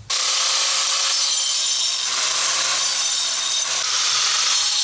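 Small angle grinder fitted with a worn-down stub of a cut-off disc, grinding into a brick: a steady gritty hiss with a high motor whine that cuts in suddenly. The brick edges are being ground down to a marked line.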